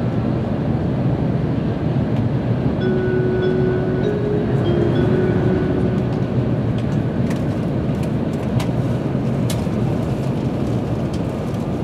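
Steady rumble and rush inside a Tokaido Shinkansen car running at speed, with a few faint tones that step in pitch partway through and scattered light clicks in the second half.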